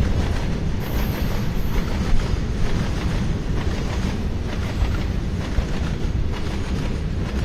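Freight train rolling along the rails: a loud, steady rumble of wagons with faint repeated knocks from the wheels.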